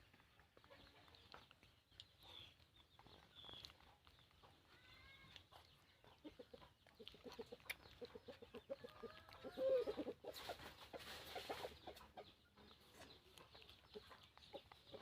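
Chickens clucking faintly in a run of short notes, loudest around ten seconds in, with a few high chirps shortly before.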